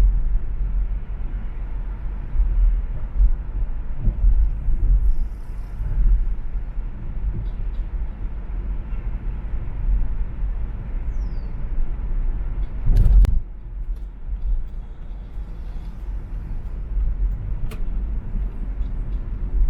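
Expressway traffic noise from a moving car: a steady low rumble of tyres and engines, with one brief loud knock about two-thirds of the way through.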